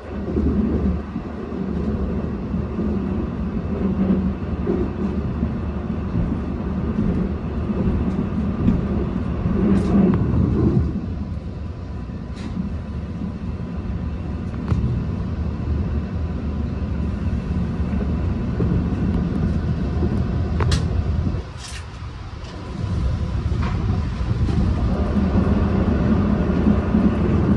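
Long Island Rail Road train running at speed: a steady rumble of wheels on the rails, with a few brief high squeaks and a short dip in the rumble about three-quarters of the way through.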